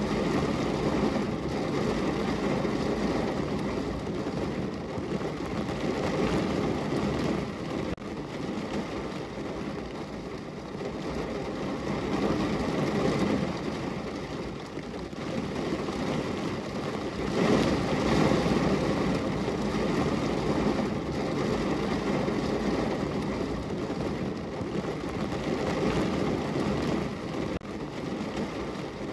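Steady rain on a window, with a low rumble that swells and fades every several seconds.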